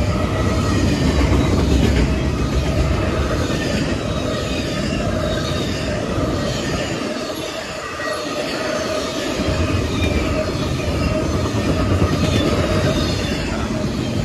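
Double-stack intermodal freight cars rolling past at speed: a continuous loud rumble of steel wheels on rail, with a thin steady squeal of wheels above it. The low rumble eases for a moment about halfway through, then comes back.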